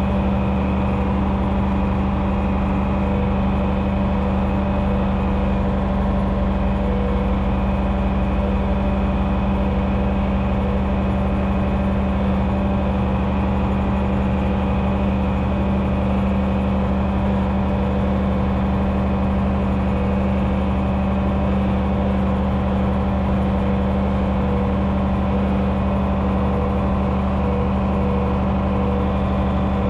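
1972 John Deere 6030 tractor's six-cylinder turbocharged diesel engine running steadily at an even speed, with a strong, unchanging hum.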